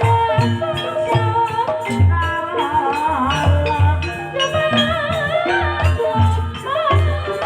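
Campursari-style gamelan music for ebeg: low drum strokes on a steady beat under a wavering melody, with a shaken rattle over the top.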